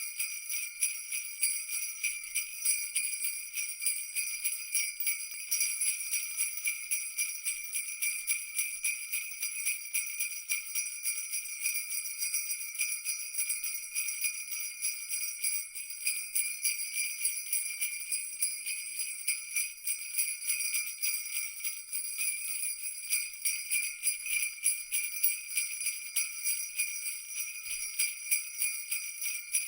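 Jingle bells shaken continuously in a fast, even rhythm, their bright high ringing steady throughout.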